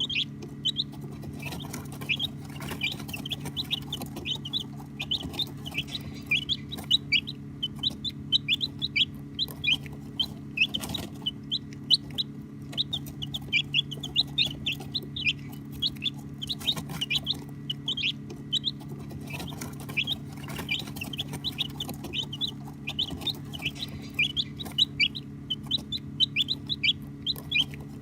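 A brood of baby chicks peeping continuously, many short, high, downward-sliding peeps overlapping several times a second, over a steady low hum.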